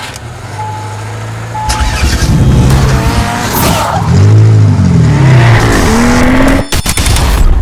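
A car engine running steadily, then revving up and down several times in rising and falling sweeps of pitch. It cuts off abruptly near the end.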